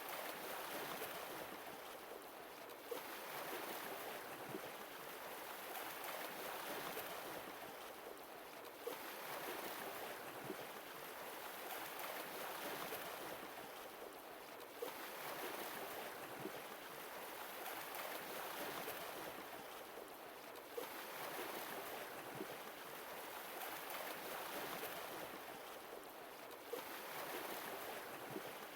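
Sea waves washing in and drawing back, a steady hiss that swells and fades about every six seconds.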